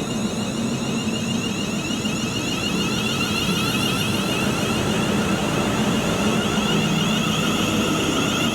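A train running through the station: a steady mechanical rumble with several held tones from its engine or traction motors, growing slightly louder over the last few seconds.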